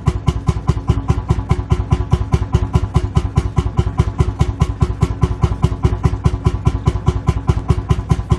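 Lanz Bulldog tractor's single-cylinder two-stroke hot-bulb engine idling, a steady, even chugging of about six beats a second.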